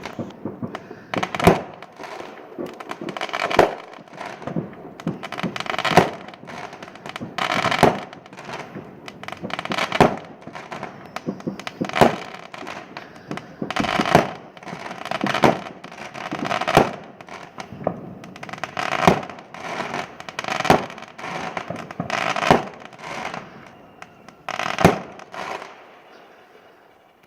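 Fireworks going off in a steady barrage: sharp bangs, often in quick clusters, every second or two, with crackling in between, fading out near the end.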